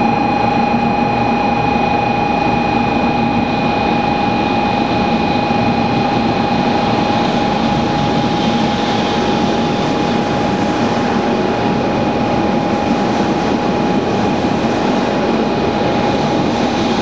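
100 series Shinkansen train running along the platform: a steady rumble of wheels and running gear, with a thin steady high tone throughout.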